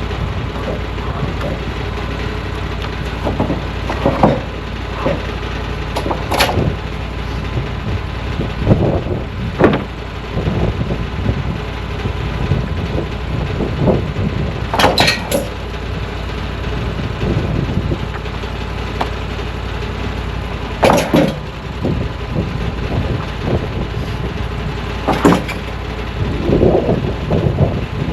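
An engine running steadily at idle, with clanks and knocks every few seconds from wood or metal being handled.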